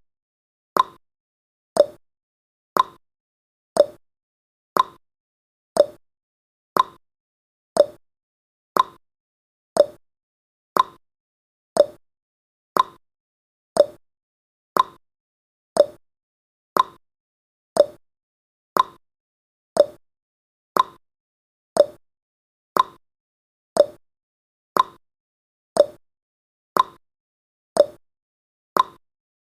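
Countdown timer's clock-tick sound effect: a short, sharp tick once a second, steady throughout, with alternate ticks pitched higher and lower like a tick-tock.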